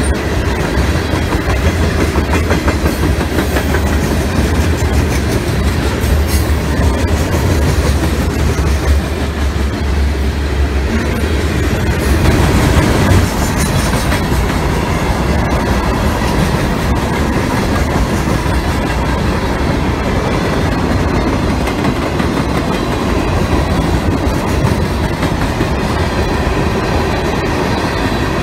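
Freight train cars rolling past, a loud steady rumble of steel wheels on rail.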